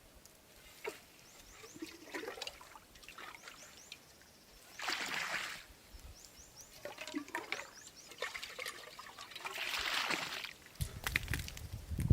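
Water pouring in two short spells about five seconds apart, the second one longer, with small scrapes and knocks between them. A low rumble starts near the end.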